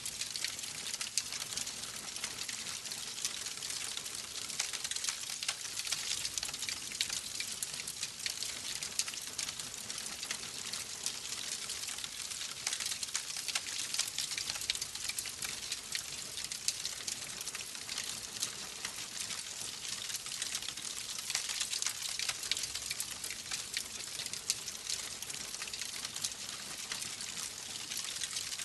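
Wood fire crackling, a steady hiss dotted with frequent small pops and snaps.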